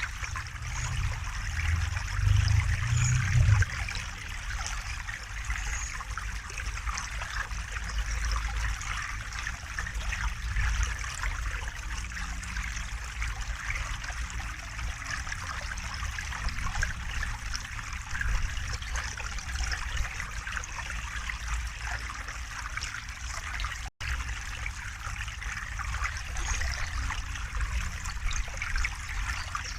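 River water running steadily, with a deeper low rumble that is louder for the first few seconds. The sound cuts out for an instant about 24 seconds in.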